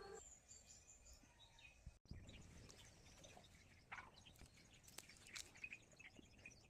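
Faint scattered bird chirps over near silence.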